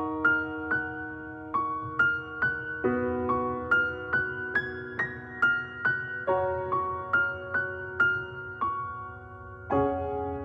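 Slow, gentle piano-like melody with single notes struck about twice a second over sustained lower chords, in a sad, tender mood.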